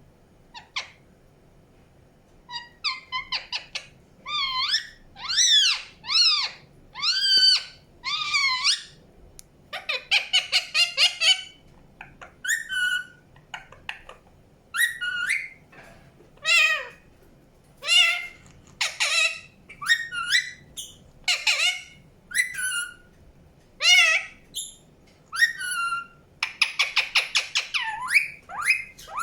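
Indian ringneck parakeet calling: a long string of short, high, sliding chirps and squawks, with rapid chattering runs about ten seconds in and again near the end.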